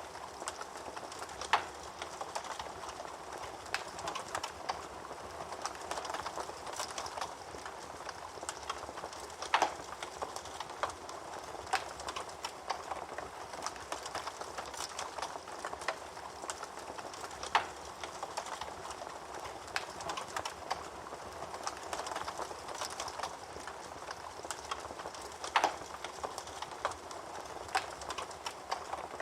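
Wood fire burning in a fireplace: a steady crackle with four louder pops, about eight seconds apart.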